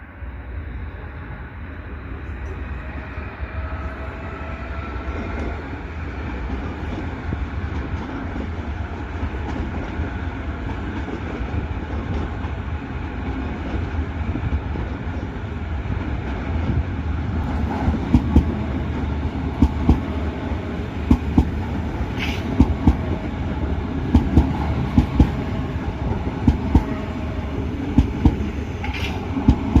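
Train running through a station on steel rails, growing louder over the first few seconds, with a faint whine from the train early on. In the second half the wheels clack over the rail joints again and again, with a couple of brief high squeaks.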